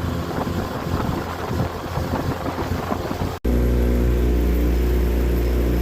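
Small boat's outboard motor running steadily across the water, with strong wind buffeting the microphone for the first three and a half seconds. After a momentary dropout the motor's steady drone comes through clearly.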